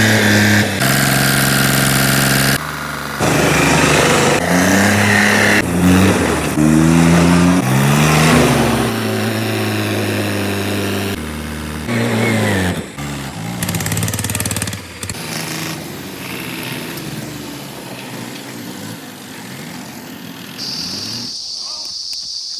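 Diesel tractor engines revving and labouring, pitch climbing and falling with the throttle, with abrupt changes from shot to shot. Near the end a steady high insect chirping comes in over a quieter engine.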